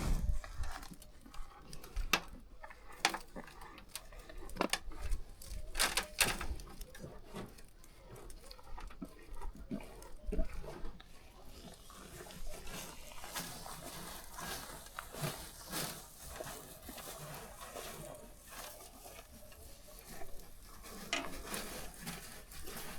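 Livestock moving about and feeding: irregular knocks, rustling and patter, loudest in the first half.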